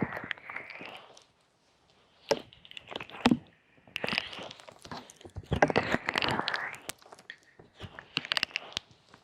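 Hands rubbing and tapping on a microphone for ASMR ear massage: uneven swells of close rustling and crackling with sharp clicks, broken by a brief lull about a second in.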